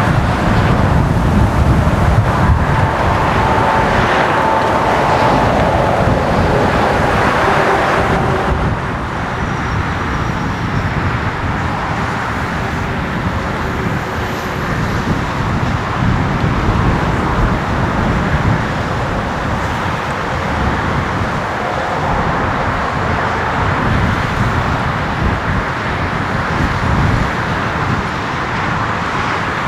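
Loud, steady roar of airport aircraft noise mixed with road traffic, with a faint whine in the first eight seconds. The sound shifts abruptly about eight and a half seconds in.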